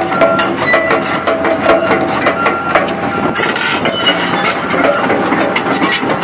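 Komatsu PC200LC-5L hydraulic excavator running, with rapid metallic clanking and short squeals that repeat every half second or so.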